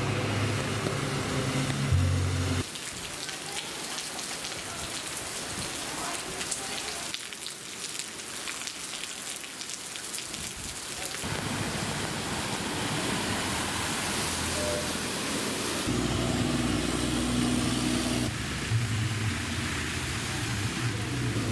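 Heavy monsoon rain falling steadily on paved ground and standing water, a dense hiss. Near the start, and again over the last five seconds or so, a motor vehicle's engine runs beneath the rain.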